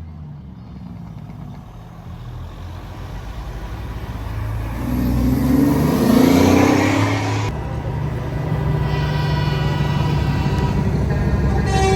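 Truck engines rumbling past in a parade, one growing louder and revving up to a peak about five to seven seconds in. After an abrupt cut, a steady engine rumble with a faint held tone over it.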